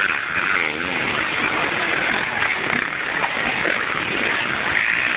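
Motocross motorcycle engines racing, revving up and down as the bikes ride the course.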